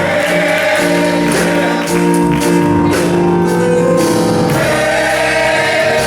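Male chorus singing gospel music, with instrumental accompaniment and cymbal or drum hits.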